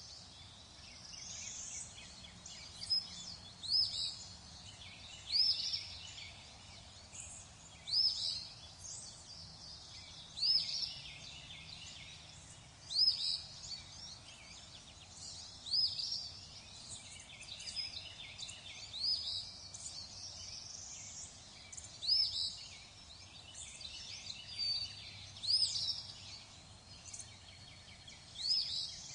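Songbirds calling: short, high, arching notes repeated every two to three seconds over a steady soft hiss.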